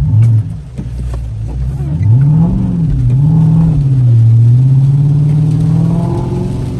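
Car engine revving: a short loud blip at the start, then the revs swing up and down twice and settle into a steadier, slowly rising pitch as the car accelerates.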